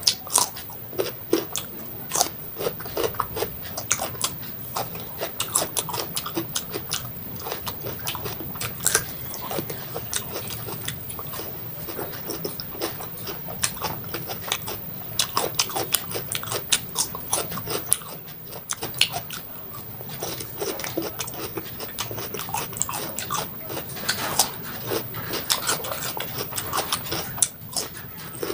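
Close-miked biting and chewing of raw cucumber, with many crisp wet crunches in quick succession.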